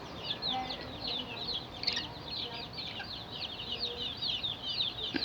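Small cage birds chattering: a dense, continuous run of short, high chirps, several a second, with no pause.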